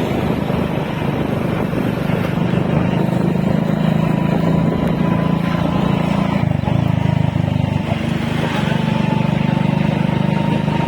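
Motorcycle engine running steadily under way, with road and wind noise. The engine note dips briefly about two-thirds of the way through, then picks up again.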